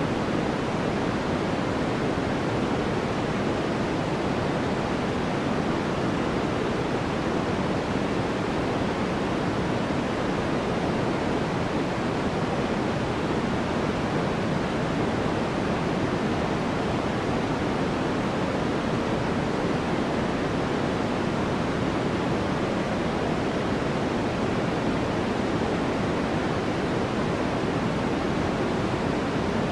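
Steady synthetic white noise, an even hiss with no rhythm or change. It is fuller in the low and middle range and softer in the highest treble.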